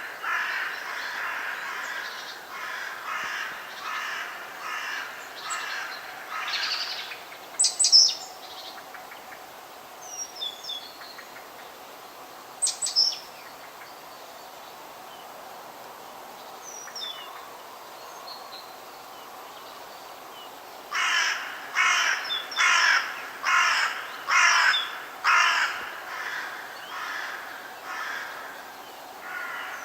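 Forest birds calling. One bird gives a run of repeated calls, about two a second, for several seconds at the start and again, louder, near the end, with a few short sharp chirps from other birds in between, over a steady faint background hiss.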